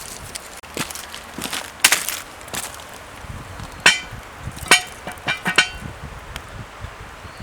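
Hard objects clinking together in a few sharp strikes, two of them ringing briefly, over handling and rustling noise.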